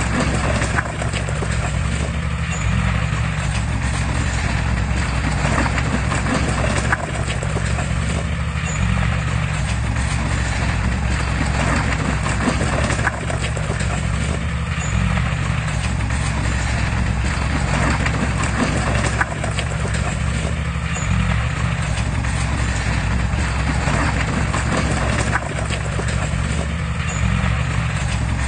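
Heavy diesel machinery running steadily, with a low engine drone under a clattering of metal. The pattern repeats about every six seconds.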